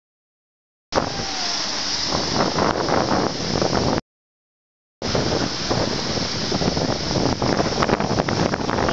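Jet ski engines running, mostly buried under heavy wind buffeting on the microphone and surf. The sound drops out to dead silence at the very start and again about four seconds in, where the recording is cut.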